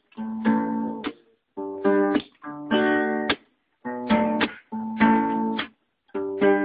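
Acoustic guitar strumming chords as a song's intro, in a steady rhythm. Each group of strums stops short, with brief silent breaks between them.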